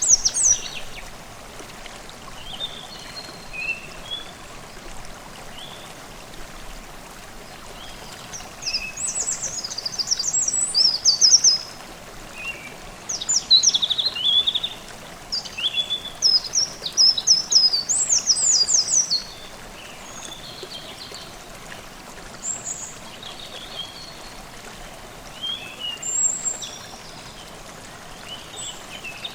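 A forest stream runs with a steady babble under songbirds singing. The birds give repeated high, rapid trilling phrases, loudest and most frequent from about nine to nineteen seconds in, with sparser calls around them.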